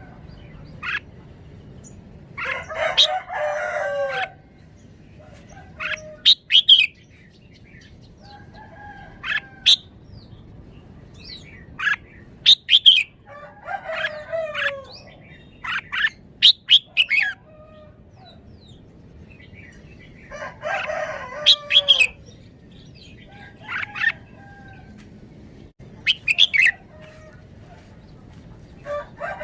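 Red-whiskered bulbul singing: short, loud phrases of rich gliding whistles, repeated every two to three seconds.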